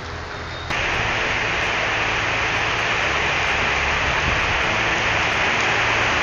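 Heavy rain falling as a steady hiss, which suddenly grows louder under a second in.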